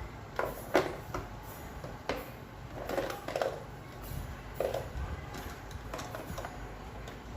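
Scattered knocks and clicks of hard parts being handled, about ten at irregular intervals, some with a short ring, over a low steady hum.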